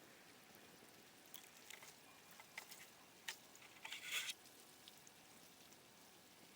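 Near silence with a scattering of faint short clicks and crackles in the middle, the loudest cluster about four seconds in.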